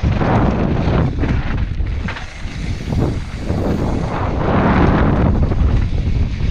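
Wind buffeting an onboard action-camera microphone as a mountain bike rides fast down a trail, with a steady low rumble and scattered knocks and rattles from the bike over rough ground.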